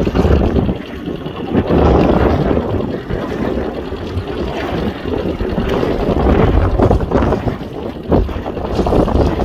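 Strong, gusty wind blowing across the microphone: a loud low rumble that swells and dips every second or so.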